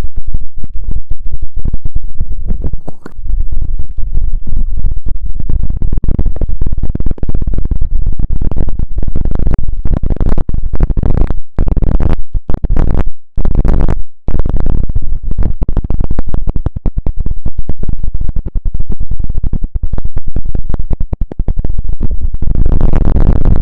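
Close, loud ASMR scratching and tapping on or right at a microphone: fast, dense strokes that are heaviest in the low end, with a few short breaks in the middle.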